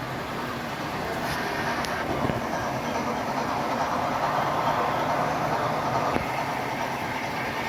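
Model train running on a club layout: a steady rumble of wheels on track that grows somewhat louder in the middle and eases again, with a few light clicks.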